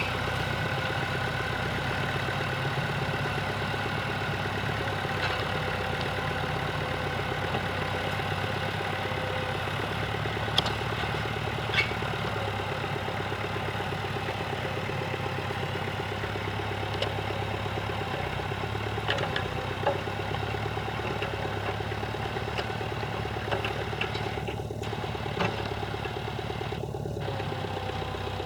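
Tractor engine running steadily under load, with a few sharp clanks scattered through it.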